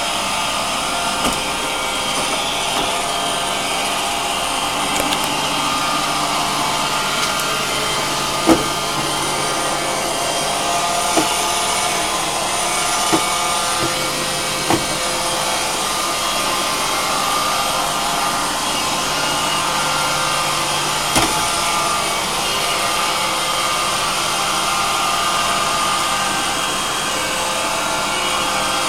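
iRobot Roomba 560 robot vacuum running steadily on carpet, a constant whirring hum, with about six brief knocks scattered through it.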